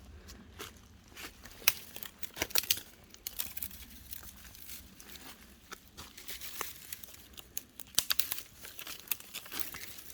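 Irregular crackling and rustling of leaf litter, twigs and brush underfoot as someone moves through forest undergrowth, in uneven clusters of sharp crackles.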